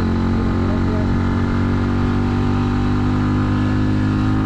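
Italika 250Z's single-cylinder engine running under steady throttle, its pitch rising slowly as the bike gathers speed in one gear.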